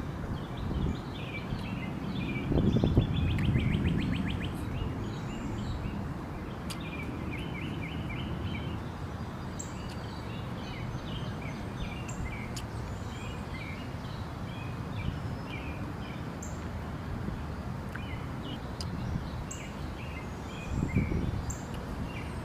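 Small birds chirping and calling, many short notes overlapping, with a quick rattling trill about three seconds in, over a steady low rumble.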